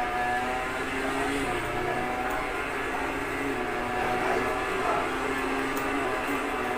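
Several motorcycle engines running at once, a steady drone of overlapping tones that shift slightly in pitch.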